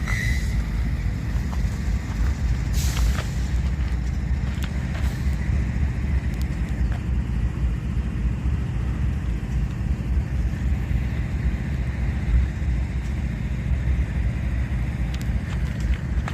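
Diesel-electric freight locomotives idling steadily, a deep, even rumble, with a brief sharp hiss or clank about three seconds in.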